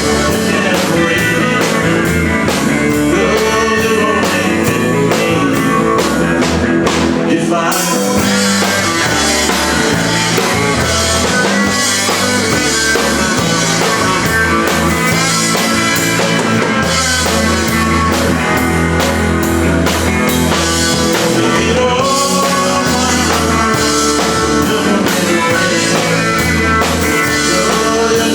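Live band playing a country-rock song with guitar over a steady drum beat.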